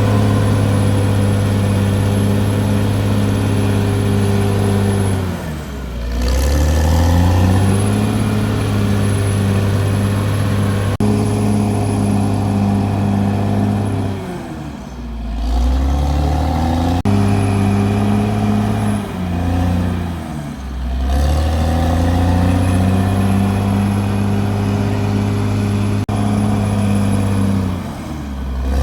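CAT D6R XL bulldozer's diesel engine running hard at high revs with a thin high whine. Its pitch sags and recovers four times, about a fifth of the way in, at the middle, about two thirds in, and near the end, as the load comes on or the throttle eases.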